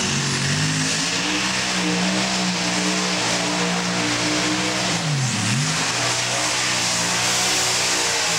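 Modified pulling tractor's engines running at full power under load, a steady high note that drops sharply about five seconds in and climbs straight back up.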